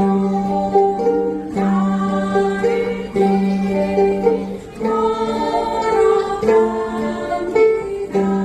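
A group of ukulele players strumming and singing a song together, holding long notes in each phrase.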